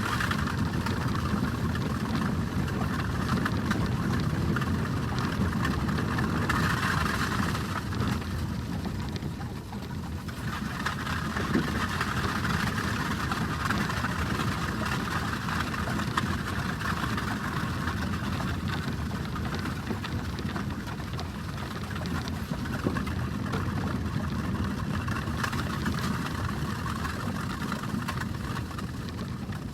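Horse-drawn stagecoach with a four-horse team rolling along, its wheels making a steady rumble that eases briefly about ten seconds in.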